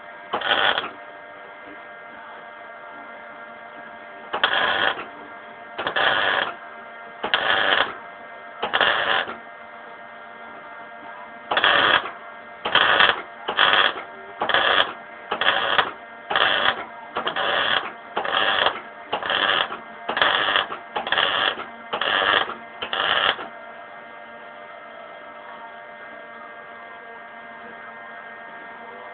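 Welder tack-welding exhaust pipe: short hissing bursts of about half a second to a second, four spaced out, then a quick run of about a dozen roughly once a second, over a steady electrical hum that stays between them.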